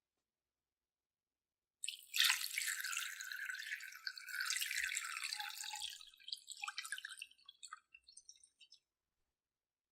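Water pouring, starting suddenly about two seconds in, running for about four seconds and trailing off into scattered drips.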